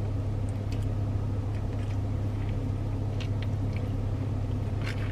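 A steady low hum runs without change, with a few faint light clicks over it.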